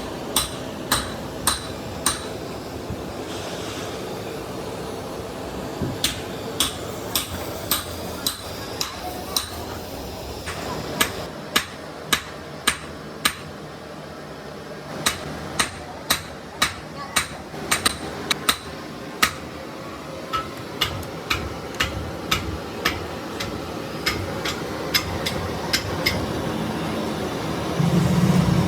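Hammer blows on metal, each a sharp strike with a short metallic ring, coming in irregular runs of roughly one to two a second. Near the end a heavy engine starts running.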